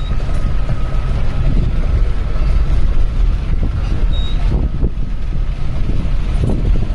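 A steady, loud low engine rumble with wind buffeting the microphone, as from a moving safari vehicle. A faint steady tone sits above it, and a brief high chirp comes about four seconds in.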